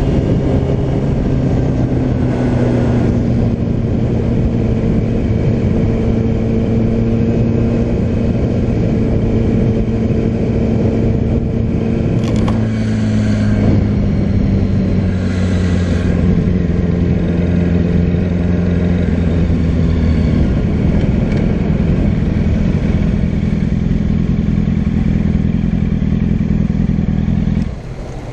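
Motorcycle engine running steadily under way, its note slowly sinking as the bike eases off; the sound cuts off suddenly near the end.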